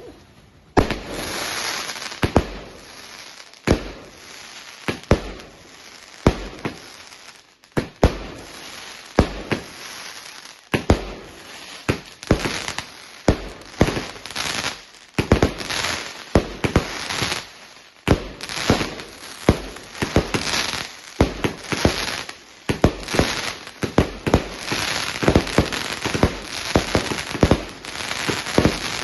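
A 20-shot 25 mm firework cake firing: a long run of sharp bangs from shots launching and bursting, with continuous crackling between them. The bangs come closer together in the second half.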